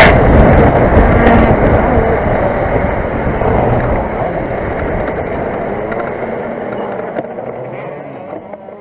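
A KZ kart's 125 cc two-stroke engine note cuts off abruptly as the engine breaks its connecting rod. What follows is a rumble and rattle with no clear pitch, with a few faint knocks, fading steadily as the dead kart coasts and slows.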